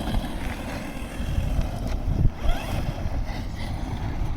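Wind buffeting the microphone, with the FTX Carnage RC monster truck's electric motor whining briefly as it accelerates, and a thump about two seconds in.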